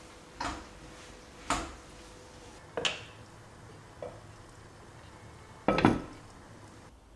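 Dishes and kitchen utensils clinking and knocking: five separate knocks a second or so apart, the last a double knock and the loudest.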